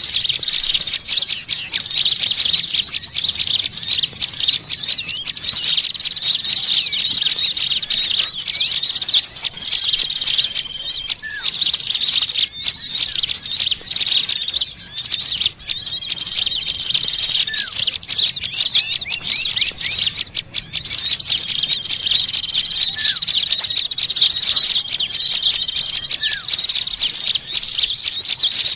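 Many small songbirds chirping and chattering noisily together in a dense, unbroken high twittering, with a short level whistle cutting through every five or six seconds. This is a bird-trapping lure recording (suara pikat) of agitated small birds.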